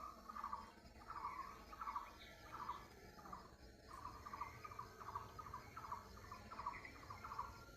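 A bird calling over and over, short calls repeated about twice a second.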